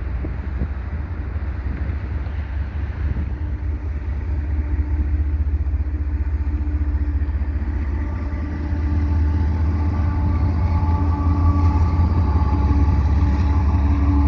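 GE ES44AC diesel-electric locomotive approaching at the head of a freight train: a heavy low rumble with a steady engine drone that grows louder about halfway through.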